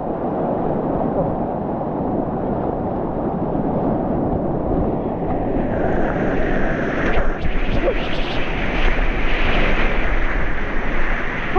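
Whitewater rapids rushing and churning close around a kayak, a dense, steady roar of water that grows louder and brighter about six seconds in.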